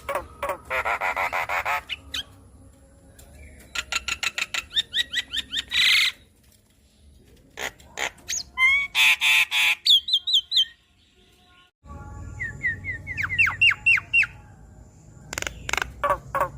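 A Javan myna (jalak kebo) singing in loud bursts: fast runs of harsh clicking notes and series of quick repeated whistled chirps, with short pauses between phrases.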